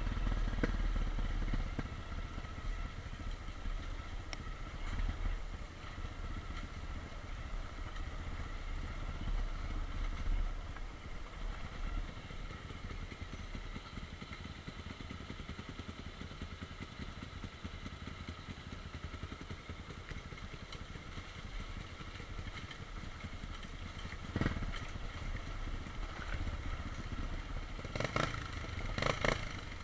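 Honda CRF230 dirt bike's single-cylinder four-stroke engine running steadily while riding a rough trail, with rattling and clatter from the bike over the bumps. A few sharp knocks come near the end.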